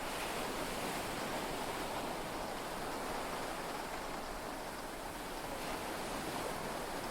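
Heavy rain and sea waves heard from inside a yacht cabin, a steady, even wash of noise with no distinct claps or splashes.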